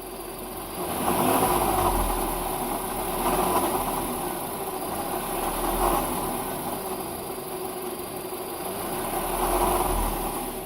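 1.4 TSI turbocharged four-cylinder petrol engine running in its engine bay, its sound swelling and easing several times. It is the engine-compartment noise that the owner is recording.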